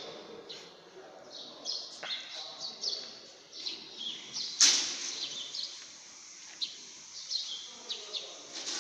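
Small birds chirping repeatedly, with a loud sudden knock about halfway through.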